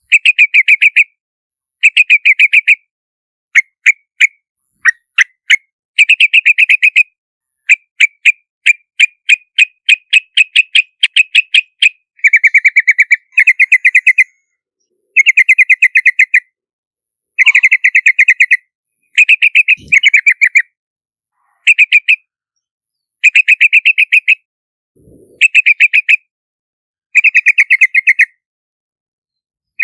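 Yellow-vented bulbul calling: short bursts of rapid, bubbling notes repeated every second or two, with brief silent gaps between them.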